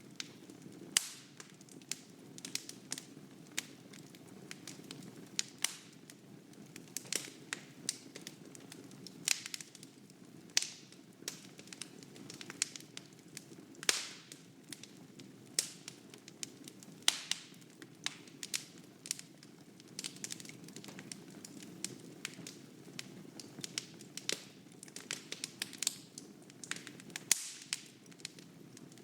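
Wood fire burning in a fireplace: frequent sharp, irregular crackles and pops over a steady low rush of flames.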